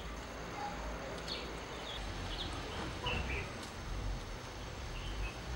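Outdoor background with scattered short bird chirps, about half a dozen, over a steady hiss and low rumble.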